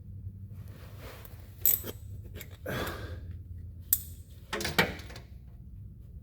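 A few sharp metallic clinks of hand tools being handled under a vehicle, with a short scrape about a third of the way in, over a steady low hum.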